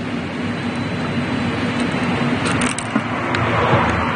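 A steady mechanical hum, with a few faint light clicks about two and a half seconds in.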